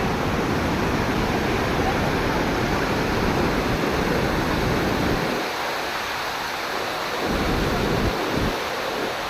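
Loud, steady rush of monsoon water, with a heavy low rumble of wind on the microphone that drops away about halfway through and briefly returns near the end.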